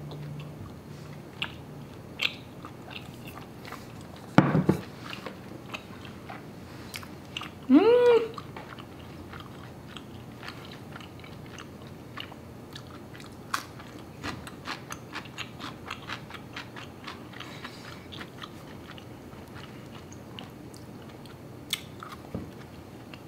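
Close-up mouth sounds of a person chewing chewy Korean rice cakes (tteokbokki), with many small wet clicks throughout. There is a thump about four and a half seconds in, and a rising-then-falling "mmm" of enjoyment about eight seconds in.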